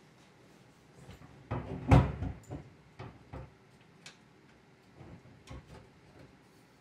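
Metal clunks and clicks of a snow plow mounting frame and its pins being handled while fitting the plow to an ATV: a burst of heavy knocks about two seconds in, then a few lighter single clicks and knocks.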